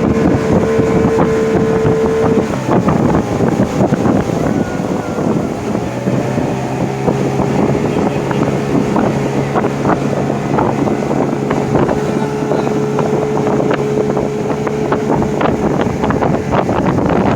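Motorboat engine running steadily at speed, with wind buffeting the microphone and frequent sharp knocks over the noise.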